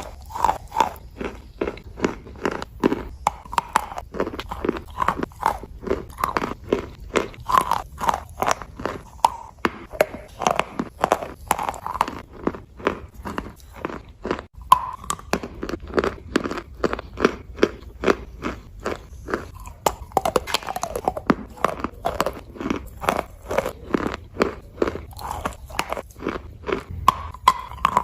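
Chalk being bitten and chewed close to the microphone, crunching steadily at about two to three crunches a second.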